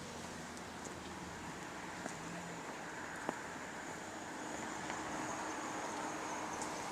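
Street traffic noise, a vehicle passing on the road and getting a little louder from about four seconds in, with one or two light clicks.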